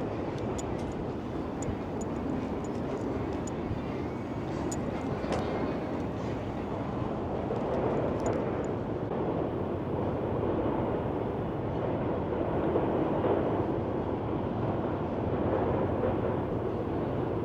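Steady rumble of a train and cars crossing a combined road-and-rail bridge together, with faint light clicks in the first few seconds.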